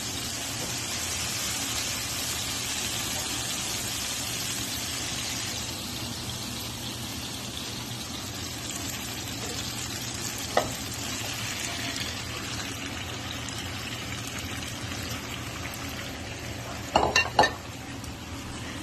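Cherry tomatoes sizzling in spinach pesto and oil in a frying pan, a steady hiss that eases after about five seconds. One sharp clink about ten seconds in, and a quick run of knocks near the end as ravioli go into the pan with a spatula.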